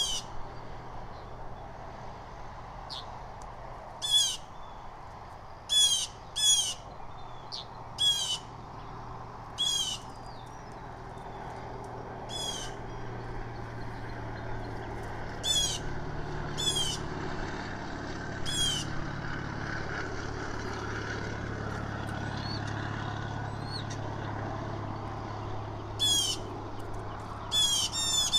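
Blue jays calling: short, downward-slurred calls repeated in bunches, with pauses of several seconds between the bunches. A steady low hum runs underneath.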